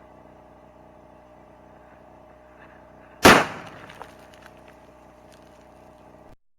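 A single .308 rifle shot from an AR-10 about three seconds in, sharp and loud with a short ringing tail and a few small ticks after it, over a faint steady hum with a thin held tone. The sound cuts off suddenly near the end.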